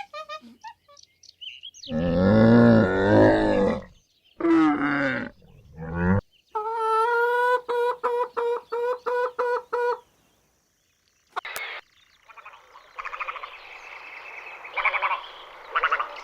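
A series of different animal calls edited one after another. There is a loud, low roar-like call about two seconds in, then a second call, then a run of short calls repeated evenly about four times a second. Near the end comes a scratchy, pulsing call.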